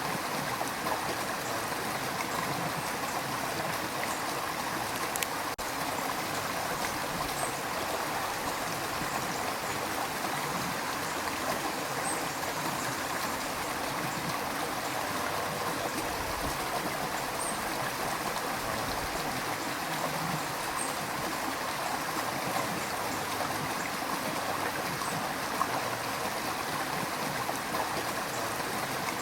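A river running over rocks, a steady rushing and gurgling of water with small splashes.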